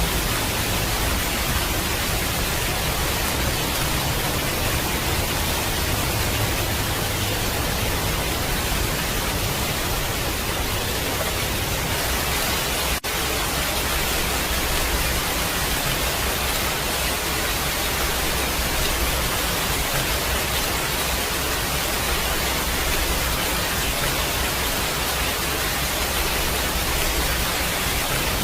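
Steady, even hiss of heavy rain, with a brief dropout about halfway through.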